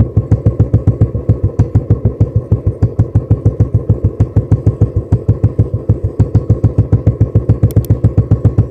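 Royal Enfield Classic 350's single-cylinder engine idling steadily through its exhaust, an even low thump about eight times a second.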